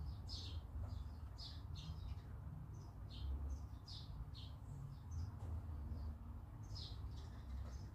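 Small birds chirping in short, irregular calls, several a second, over a low steady hum.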